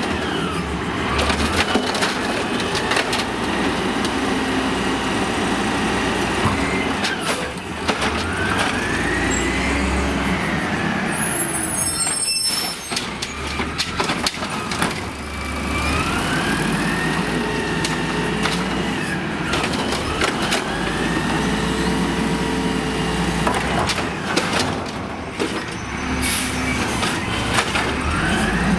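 Amrep automated side-loader garbage truck working its arm, repeatedly: the engine revs up and the hydraulics whine, rising and falling in pitch with each cycle, while cans knock and bang as they are lifted and emptied. An air-brake hiss comes in between pickups.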